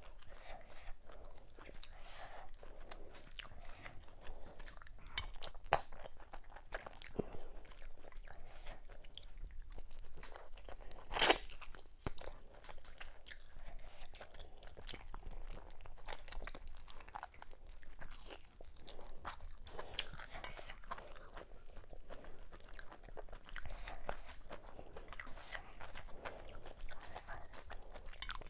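Close-miked eating: a person chewing and crunching through assorted cow meats with fufu and okra soup, a steady run of small wet clicks and crackles with one sharp, louder crunch about eleven seconds in.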